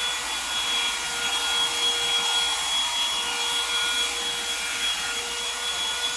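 Revlon One-Step Volumizer hot air brush running steadily: a rush of air with a steady high motor whine, and the bristles rubbing as they are pulled through the hair.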